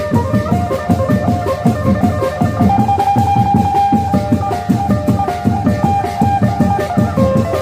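Phin, the Thai Isan plucked lute, playing a stepping melody with one longer held note, over a quick, steady drum beat.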